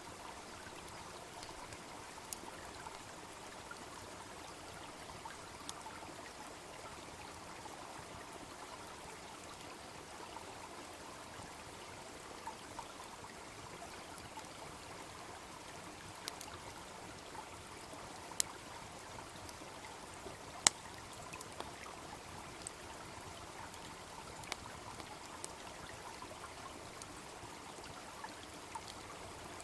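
A small stream babbling steadily, with a wood fire crackling over it in scattered sharp pops, the loudest about two-thirds of the way in.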